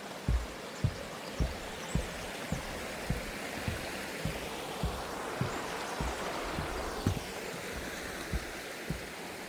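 Footsteps at a steady walking pace, a little under two a second, over the rushing of a stream that grows louder in the middle and eases off again.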